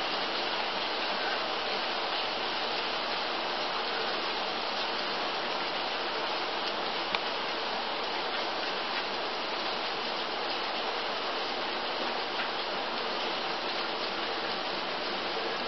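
Steady rain falling, an even hiss with no birdsong, with one small tick about seven seconds in.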